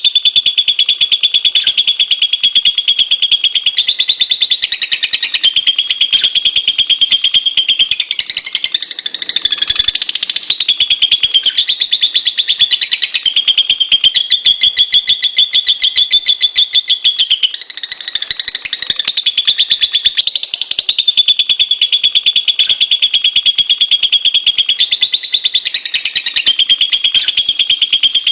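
Lovebird singing a long, unbroken chattering trill of very rapid high-pitched notes that steps up and down in pitch, faltering briefly about ten seconds in.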